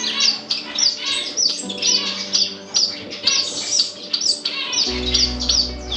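Many small pet finches chirping in a bird room, a quick run of short high calls several times a second. A low rumble joins about five seconds in.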